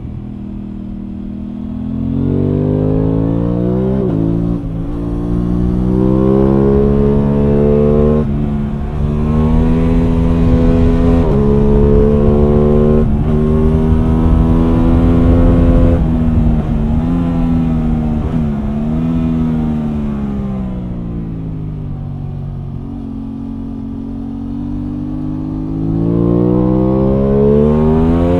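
Aprilia Tuono 660 Factory's parallel-twin engine heard from onboard, pulling hard through the gears: the pitch climbs, then drops sharply at each quick gear change. About two-thirds through it eases off and falls in pitch, then pulls hard and rises again near the end.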